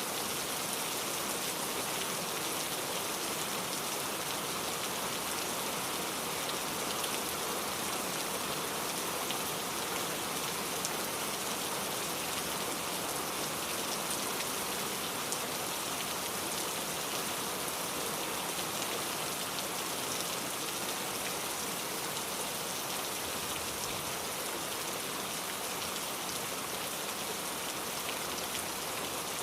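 Steady rainfall, an even hiss of rain with scattered small drop ticks, unchanging throughout.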